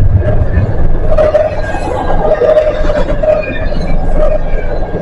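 Norfolk Southern freight train rolling past, a steady rumble of cars and wheels on the rails.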